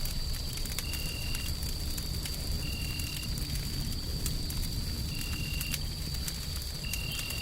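Wood fire crackling with scattered sharp pops over a steady low rumble of white noise. A constant high whine and a short high beep every second or two sit in the mix.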